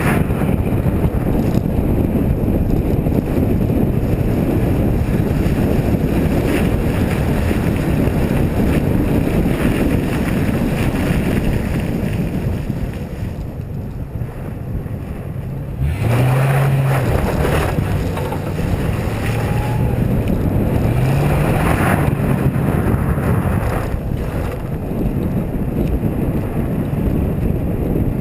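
Lincoln Town Car's V8 engine revving up and down in bursts while the car slides in the snow, under heavy wind rushing over the microphone. The engine climbs in pitch twice, about sixteen and twenty-one seconds in, after a quieter stretch.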